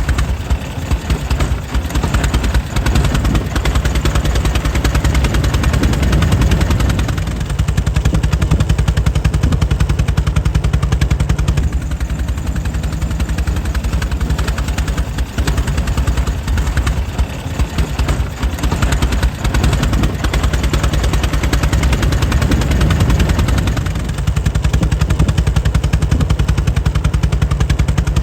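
Air-cooled 1904 Mitchell engine running steadily, a rapid, even train of exhaust firing pulses with little change in speed.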